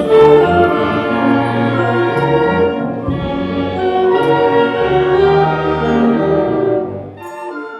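High school concert band playing a full passage with brass and low bass. Near the end the low instruments drop out and the band plays more quietly, with higher held notes.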